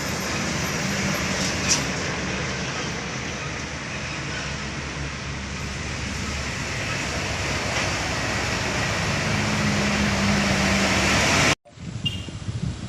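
Heavy truck engines and road noise as trucks climb a steep grade, a loud steady noise that slowly grows louder, then cuts off suddenly near the end, leaving quieter road noise.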